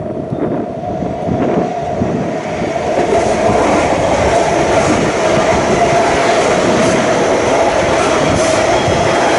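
A train running, growing louder over the first three seconds and then steady, with a steady whining tone through the noise.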